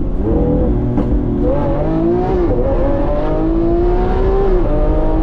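Lamborghini Aventador S's naturally aspirated V12 under full-throttle acceleration in a rolling launch, heard from inside the cabin. The engine note climbs steadily in pitch and drops back at each upshift of its single-clutch gearbox, with clear shifts about midway and near the end.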